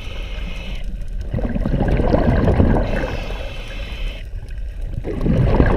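Water rushing and gurgling in surges every few seconds, over a steady low rumble.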